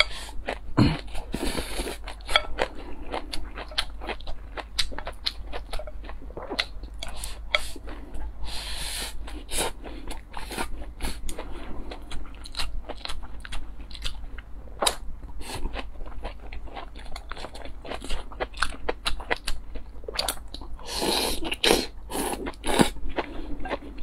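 Close-miked eating: crunchy bites and chewing, a dense run of sharp crunches with a few longer, hissier stretches.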